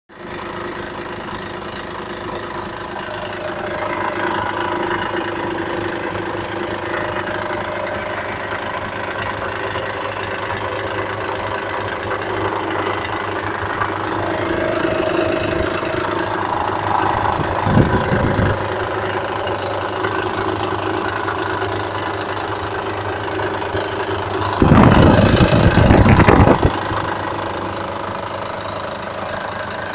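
Mitsubishi 6G74 GDI V6 engine running steadily with a knock, the fault the recording is meant to show. A brief louder burst comes about 18 seconds in, and a louder stretch of about two seconds near 25 seconds.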